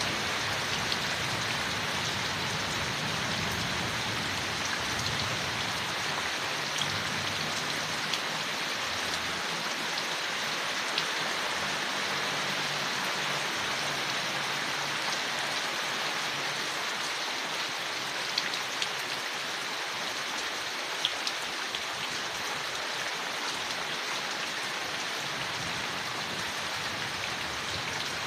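Steady rain falling on leaves, with a few sharper, louder single drops now and then.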